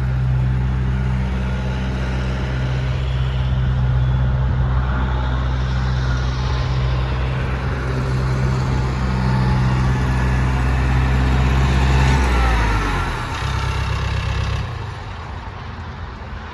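Engine running steadily. About twelve seconds in its pitch drops and the sound falls away in steps over the next few seconds.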